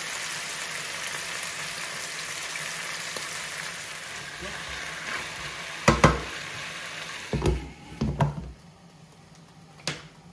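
Raw potatoes frying in oil in a pan, an even sizzle that drops away about three-quarters of the way through. A few sharp knocks come around six and eight seconds in and again near the end.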